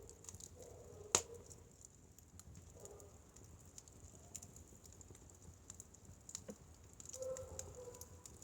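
Firewood burning, crackling with scattered small irregular pops and one sharp, louder pop about a second in.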